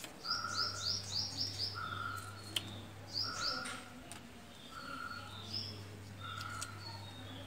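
Small birds chirping: quick runs of short, high, falling chirps, with a lower call repeated about every one and a half seconds, over a low steady hum.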